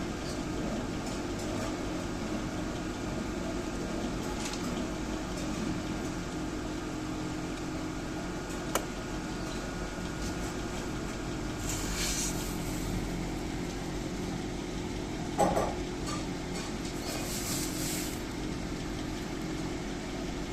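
Steady hum of an egg incubator's fan running, with a sharp click about nine seconds in, a louder knock about fifteen seconds in and a few brief rustles.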